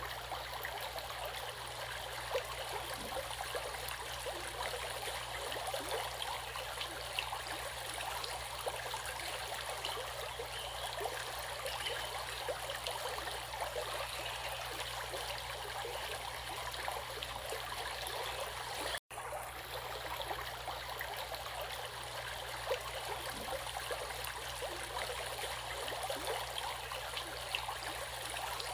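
Running water of a stream flowing steadily with a fine, bubbling texture. It cuts out for an instant about two-thirds of the way through, then carries on unchanged.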